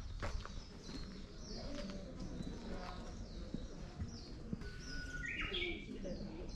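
Wild birds chirping in the surrounding woodland: many short, high, falling notes repeated again and again, with one louder, lower call about five seconds in.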